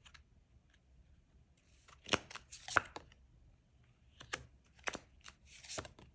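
Tarot cards being handled and laid out: a few short papery swishes and taps, a cluster about two seconds in and another from about four to six seconds.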